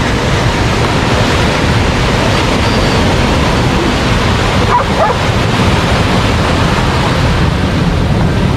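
Steady rush of ocean surf at the shoreline, with a dog giving a short bark or yelp about five seconds in.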